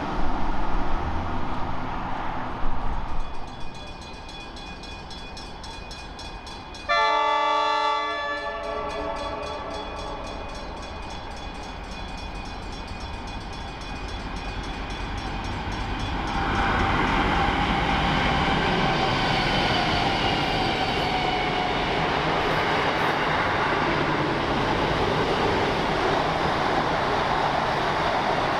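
A train horn sounds one short, loud chord about seven seconds in. From about sixteen seconds in, a train runs past the station close by, a steady heavy rumble with wheel noise.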